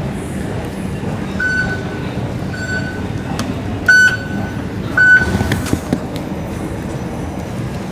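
Singapore MRT door-closing warning beeps: short high beeps about once a second, four in all, the last two louder, over the steady rumble of the train and station. A sharp knock comes just after the last beep.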